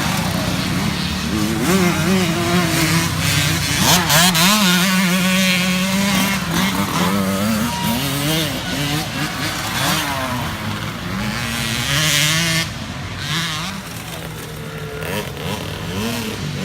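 Several small youth dirt-bike engines revving up and down in turn, their pitch rising and falling repeatedly as the riders work the throttle around the track, with one engine holding a steadier note underneath.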